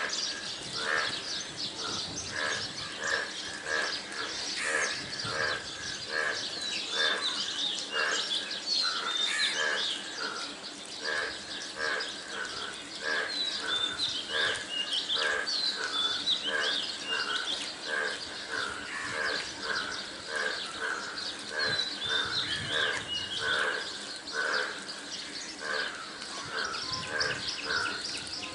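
Birds calling: a steady series of short repeated calls about two a second, with scattered higher chirps over it.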